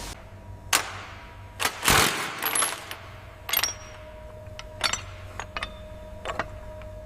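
Metal objects clinking and knocking: a string of separate sharp knocks, the loudest about two seconds in, several leaving a faint ringing tone behind.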